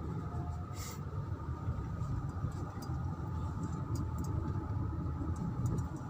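Car driving along a road: a steady low engine and road-noise rumble, with a brief hiss about a second in.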